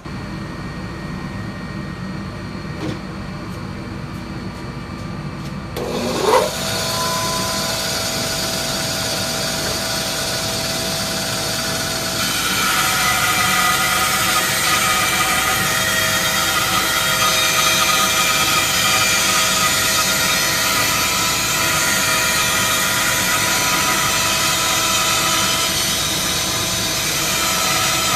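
Rikon 10-305 10-inch bandsaw switched on and running steadily. About six seconds in a rising whine leads into a louder run, and from about twelve seconds the blade is cutting wood on a 45-degree bevel, the sound fuller and brighter.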